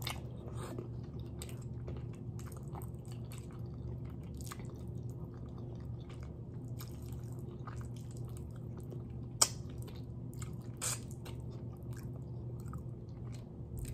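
A person chewing and biting adobo-style chicken feet close to the microphone: soft wet mouth clicks and smacks throughout, with two sharper clicks past the middle, over a steady low hum.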